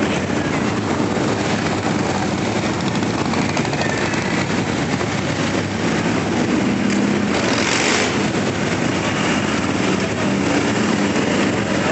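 A procession of motorcycles riding past, their engines running in a continuous dense rumble, with a brief louder rush of noise about two-thirds of the way through.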